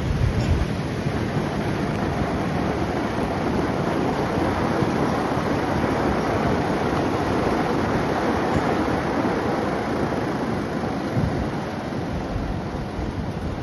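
Steady rush of wind and road noise from a moving vehicle, with wind buffeting the microphone in a low, gusty rumble.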